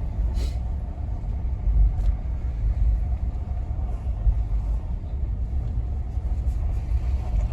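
A vehicle running with a steady low rumble, with a faint steady hum above it and a couple of brief ticks early on.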